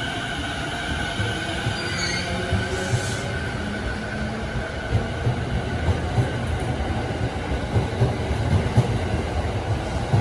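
Electric commuter trains: an E233-series train pulls away with a steady motor whine that fades over the first few seconds. Then a second train rolls in on the next track, its wheels rumbling and clacking over the rail joints with some squeal, growing louder toward the end.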